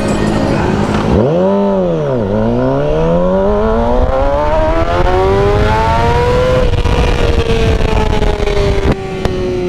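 Motorcycle engine blipped once about a second in, then accelerating with its pitch climbing steadily for about four seconds, then easing off with the note slowly falling.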